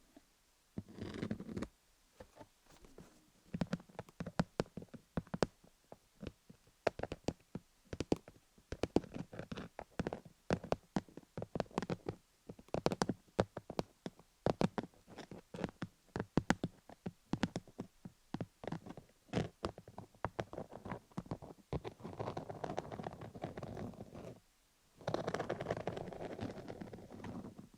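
A fluffy down material brushed and dabbed against a rhinestone-studded dummy-head microphone, making close-up scratchy rustling and many quick irregular light clicks. Longer stretches of steady rustling come about a second in and again near the end.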